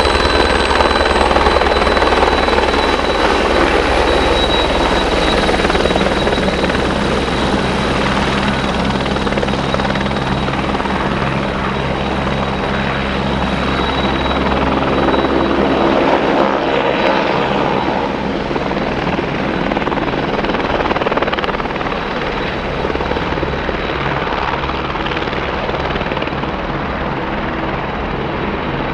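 Helicopter running close by, with steady rotor chop and a constant high turbine-like whine; the deep rotor thump fades about halfway through and the whole sound eases off a little after that.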